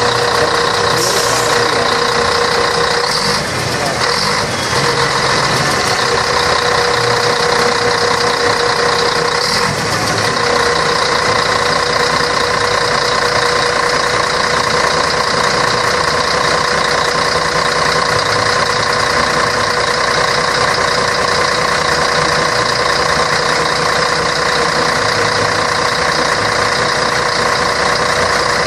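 Scania K113 bus's six-cylinder diesel engine running steadily, a constant drone that holds the same pitch throughout. A few brief faint extra noises come in during the first ten seconds.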